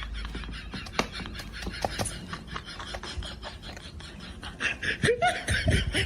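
A person laughing in short repeated bursts, loudest near the end, with a few sharp clicks.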